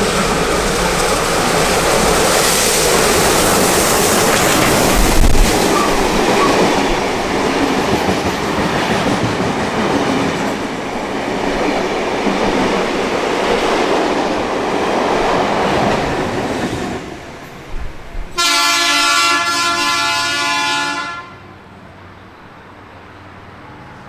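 Heritage train running past close by: a loud, steady rush of wheels and locomotives on the rails for about seventeen seconds. It fades, then comes one sustained warning blast of about three seconds on a horn or whistle, cut off sharply.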